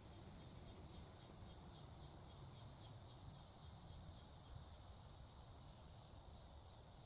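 Faint outdoor insects chirping in a steady, evenly pulsing high chorus, under a low background rumble.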